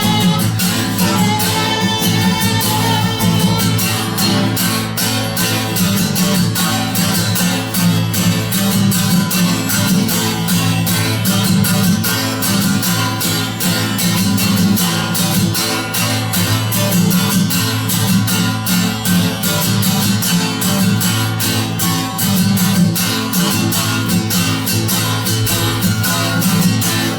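Guitar strummed in a fast, even rhythm: an instrumental break between sung verses of a song.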